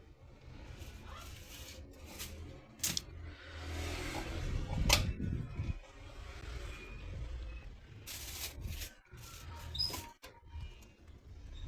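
Microwave oven being loaded and worked: scattered clicks and knocks of handling and the door over a low hum, with a few short high tones near the end.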